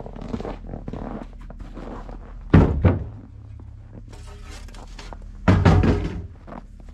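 Two heavy thuds about three seconds apart, with a faint low hum between them.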